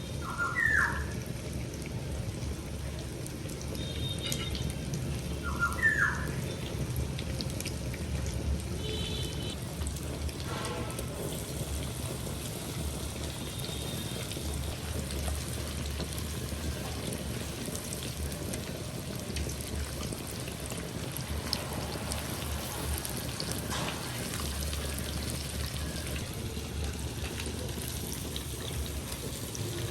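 Fish frying in hot oil: a steady sizzle with scattered small pops.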